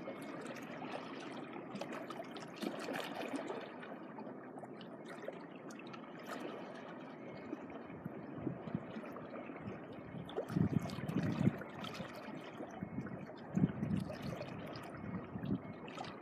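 Small waves washing and lapping at the shore of a beach: a steady wash of water, with a few louder low thumps in the second half.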